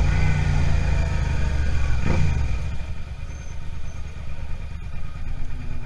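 Suzuki SV650 V-twin motorcycle engine running, loud for the first two seconds or so, then dropping to a quieter, steadier low rumble as the revs fall.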